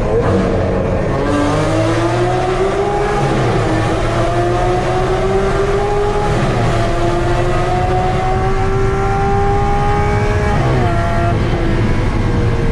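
Lamborghini Aventador SV's V12 with a Fi aftermarket exhaust under acceleration, its pitch climbing steadily for about nine seconds, then dipping sharply about ten seconds in before climbing again.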